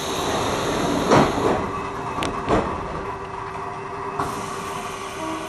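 Fukushima Kotsu Iizaka Line electric train pulling away, running with a steady hum, with a few sharp knocks in the first seconds, the loudest about a second in.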